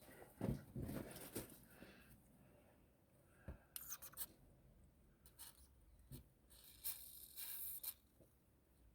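Faint, scattered scraping and rubbing with a few light knocks. The loudest scrape comes about a second in, a sharp knock follows a little after three seconds, and brief scratchy rasps come near four seconds and again between seven and eight seconds.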